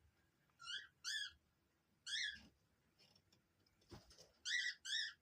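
Five short, high-pitched animal calls, each rising then falling in pitch, some coming in quick pairs. A soft knock sounds about four seconds in.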